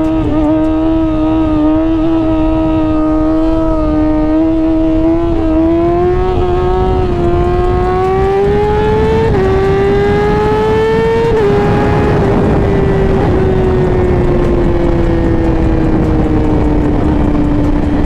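A 2017 Yamaha R6's 600cc inline-four engine is under way. It holds steady, then accelerates with rising pitch through two quick upshifts midway, and then eases off with the pitch slowly falling.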